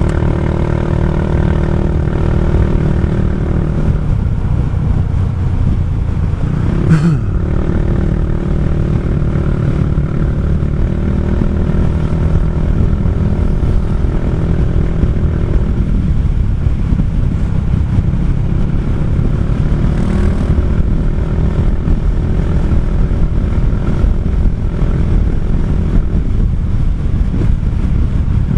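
Kymco Xciting 400i maxi-scooter's single-cylinder engine running steadily at road speed, its note shifting slightly with the throttle. There is one short thump about seven seconds in.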